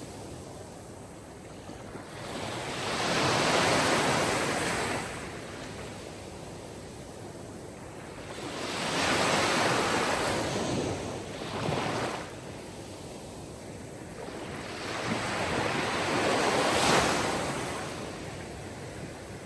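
Sea waves breaking and washing ashore: three swells of surf, each building and fading over a few seconds, about six seconds apart.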